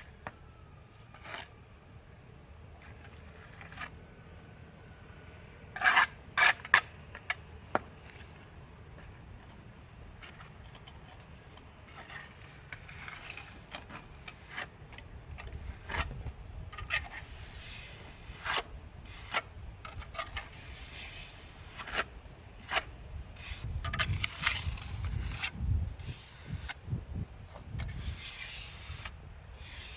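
Irregular scraping and rubbing, with a quick cluster of sharp clicks about six seconds in.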